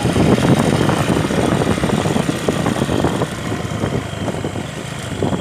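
A small engine running close by, loud and steady with a rough, rattling texture.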